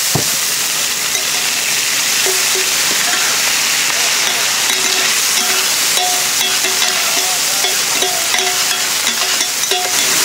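Oysters and egg sizzling on a hot flat iron griddle as an oyster omelette fries: a loud, steady frying hiss, with metal spatulas scraping and turning the food on the pan and a knock right at the start.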